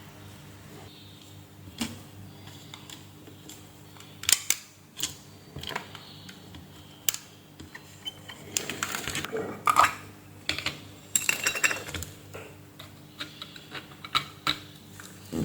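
Small tools and parts clicking and clattering at irregular intervals on an electronics workbench, busiest a little past the middle, over a steady low hum.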